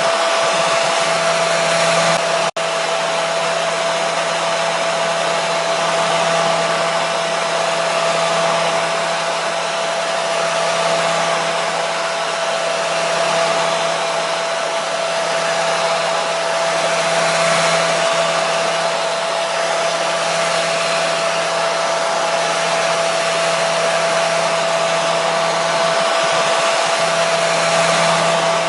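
Hair dryer running steadily: an even, airy rush with a constant motor hum, with a momentary dropout about two and a half seconds in.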